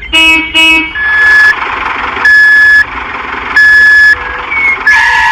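A vehicle horn tooting twice, then a reversing alarm beeping steadily, four long beeps at about one every second and a half, over a hissing motor-like noise.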